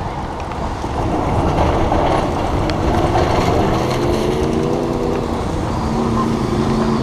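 Steady wind and wet road noise on the camera while cycling in rain, with a nearby motor vehicle's engine hum coming up about halfway through.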